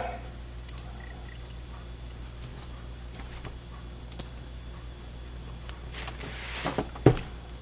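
Steady low hum of a running Dell XPS 8300 desktop computer, with a few faint clicks and a short rustle and knock near the end.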